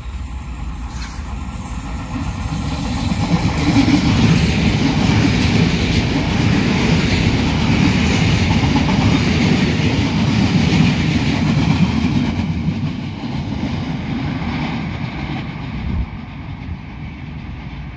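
Passenger train passing close by at speed, its wheels running on the rails. The sound builds over the first few seconds, stays loud for about eight seconds as the coaches go by, then falls away as the train recedes.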